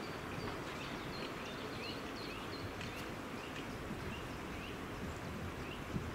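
A small bird calling in short rising chirps, about two a second, over steady background noise.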